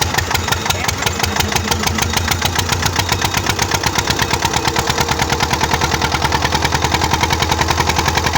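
Truck engine idling with a rapid, even pulsing beat, about ten pulses a second, slightly sharper in the second half.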